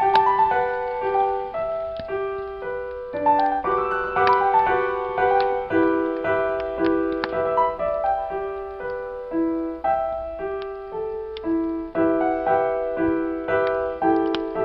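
Solo piano playing a slow, calm cinematic melody over held chords, a new note sounding about every half second.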